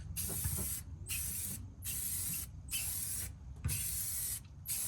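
Aerosol spray paint can hissing out paint in about six short bursts, with brief pauses between them.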